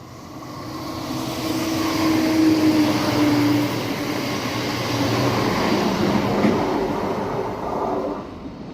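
Class 170 Turbostar diesel multiple unit passing through the station without stopping: engine note and wheel noise swell over the first couple of seconds, hold steady, then fade near the end as it goes away.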